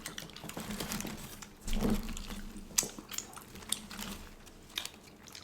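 Close-up eating of crispy fried chicken: chewing and crunching with scattered crackles and clicks, and a louder bite about two seconds in.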